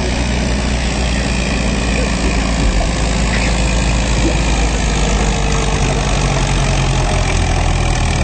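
Farm tractor engine idling steadily with a low, even hum.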